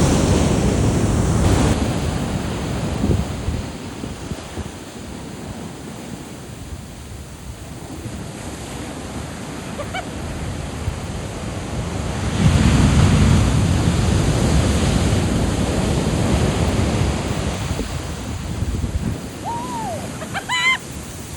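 Big ocean surf breaking on a beach: waves crash and wash up the sand, loudest at the start and again about twelve seconds in, with wind buffeting the microphone.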